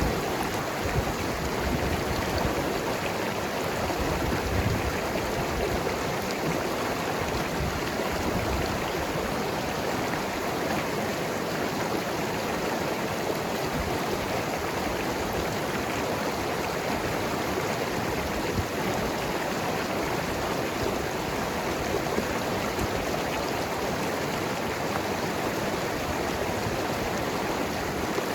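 Mountain river flowing and gurgling over rocks in a steady rushing stream.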